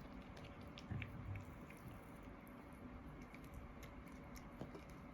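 A dog chewing a piece of grilled chicken: faint, scattered clicks of chewing.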